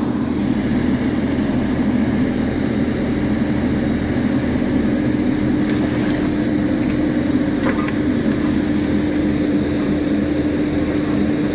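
Heavy engine running steadily with a constant low hum, with a few faint clicks over it.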